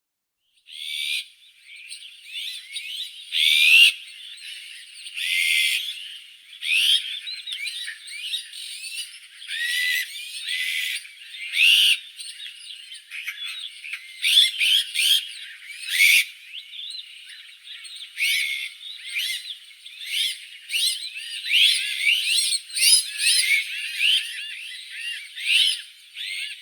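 Azure-winged magpies calling in a dense run of short rising and falling chirps, with a few louder, harsher notes among them. The calls begin about a second in.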